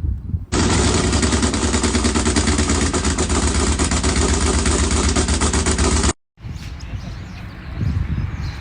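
Loud engine running steadily with a rapid pulsing exhaust beat. It cuts in sharply about half a second in and stops abruptly about six seconds in.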